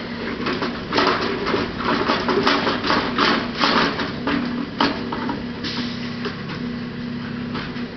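Diesel engine of an old heavy refuse truck running steadily, with a series of loud clanks and bangs in the first half.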